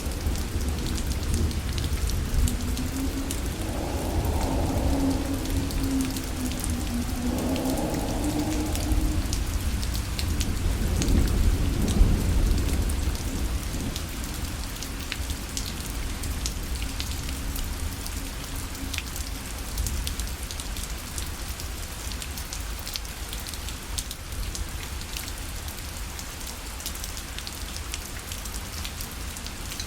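Steady rain pattering on a parasol, with many small drop taps. A low rumble swells through the first half and fades.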